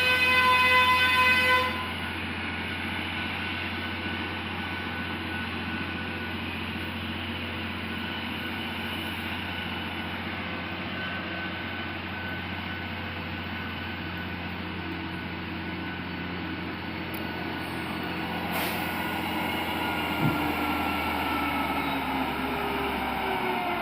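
A Scania truck's horn sounds loudly and stops about two seconds in. The truck's engine then runs steadily under load on a steep climb, and its pitch falls near the end.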